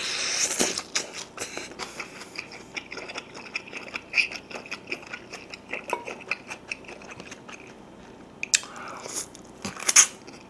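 Close-miked eating: a person biting tender soy-braised pork back rib meat off the bone and chewing, with many short wet mouth clicks. A louder burst comes at the first bite, and two more come near the end.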